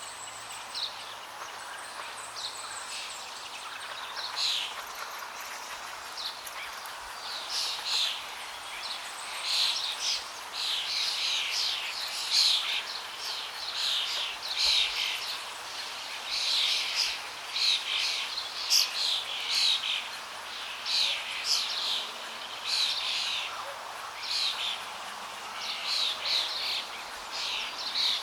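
Songbirds chirping busily, many short, quick high calls coming thicker after the first few seconds, over a steady rush of flowing water.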